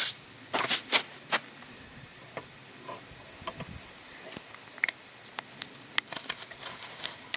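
Revolver action clicking with no shot: a few sharp clicks about a second in, then faint ticks and taps. The hammer falls on a Winchester small pistol primer that fails to ignite, a misfire in double action.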